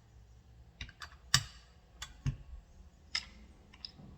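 Sharp clicks and knocks of small metal parts of an automotive starter motor being handled and fitted during reassembly: about six separate clicks, the loudest a little over a second in.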